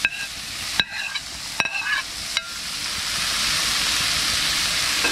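A spoon knocks and scrapes against a ceramic plate four times, about once a second, each knock with a short ring, as chopped seasoning is pushed off it into a frying pan of hot oil and margarine. From about halfway through, a steady sizzle rises and holds as the seasoning fries in the fat.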